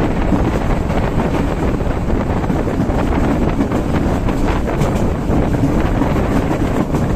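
Wind buffeting the microphone held out of a moving passenger train, over the steady running noise of the train on the rails.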